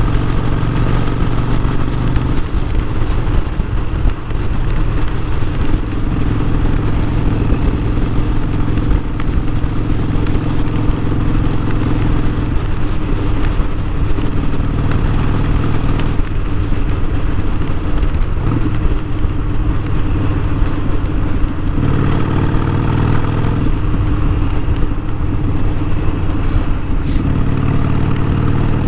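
Harley-Davidson Sportster 1200's V-twin engine running under way, its pitch stepping up and down several times as the throttle and gears change.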